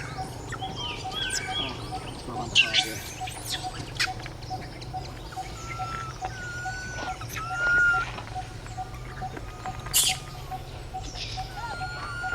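Forest ambience: many short chirps and whistled calls over a steady note repeating about three times a second and a low hum. A few sharp clicks come through, the loudest about ten seconds in.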